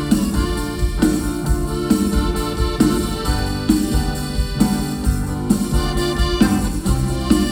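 Band playing an instrumental introduction with keyboard, bass and drums keeping a steady beat, no vocals.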